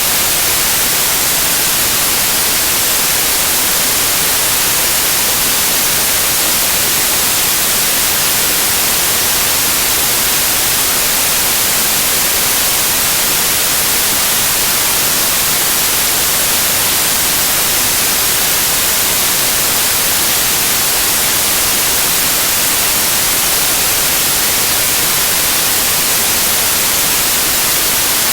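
Loud, steady white noise: an even hiss that does not change, brightest in the treble.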